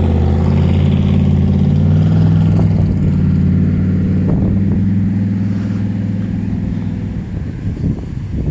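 A motor vehicle's engine running steadily, then fading over the last second or two.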